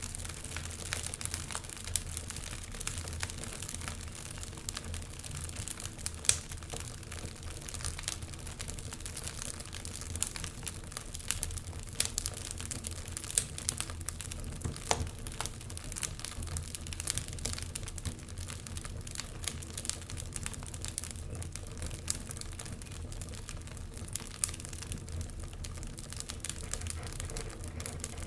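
Wood fire crackling in a fireplace: a steady low rumble of flames with irregular sharp pops and snaps from the burning logs, a few louder pops among them.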